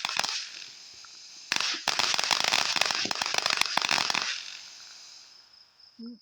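Fireworks crackling: a run of rapid sharp pops tails off right at the start, then a second dense run of crackling begins about a second and a half in and lasts nearly three seconds before fading out.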